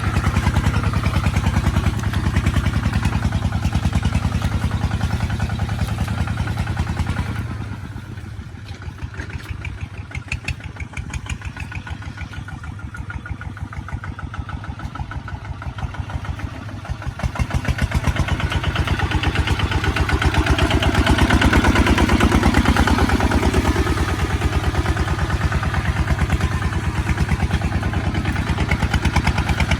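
Kubota ZT155 single-cylinder diesel engine of a tractor running with a steady, even beat. It falls quieter from about seven seconds in for some ten seconds, then comes back up to full strength.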